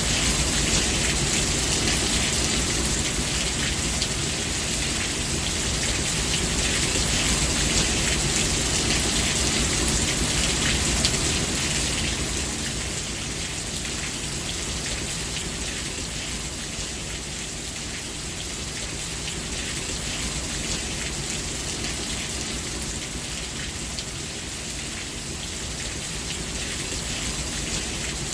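Steady rainfall, a dense hiss of drops hitting a surface with fine individual drop ticks, easing slightly about twelve seconds in.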